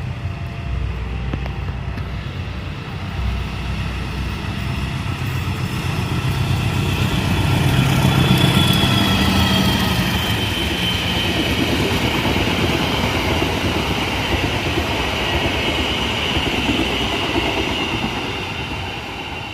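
CC 201 diesel-electric locomotive (GE U18C) with its diesel engine running steadily. The engine grows louder toward the middle and then holds, and a high whine rises above the engine note from there on.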